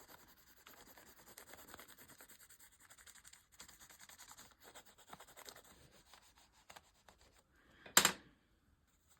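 Brush scrubbing matte gel medium over crayon colour on a journal page: a faint, steady, scratchy rubbing that stops about seven and a half seconds in. Then a single short, louder knock about eight seconds in.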